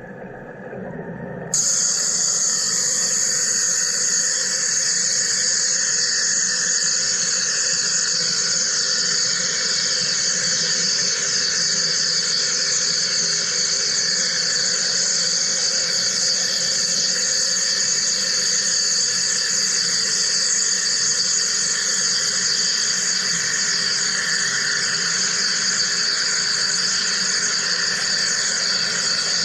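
Wire EDM machine cutting: a steady hiss from the spark discharge and flushing water, which comes in suddenly about a second and a half in and then holds even.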